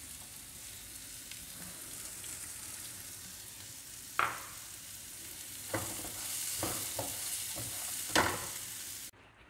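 Onion, peas, chickpeas and freshly added green capsicum sizzling in a frying pan, a steady hiss. Through the second half a spatula clacks and scrapes against the pan several times as the vegetables are stirred. The sizzle cuts off suddenly near the end.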